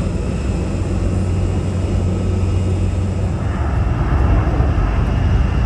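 Jet airliner engines running: a steady rumble with a high whine that comes in and grows a little louder about three and a half seconds in.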